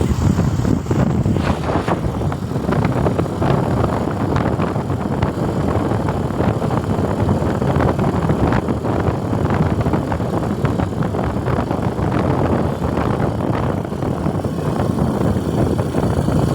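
Steady road and engine noise of a moving vehicle, with wind rumbling over the microphone.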